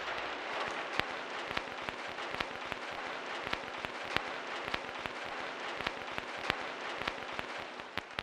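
Rain falling: a steady hiss with many sharp drop hits on a hard surface, fading out at the end.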